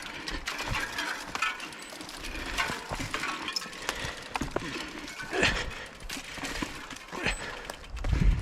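Fat-bike tyres rolling over a forest trail: an irregular run of crunches and crackles, as of twigs and leaf litter underneath.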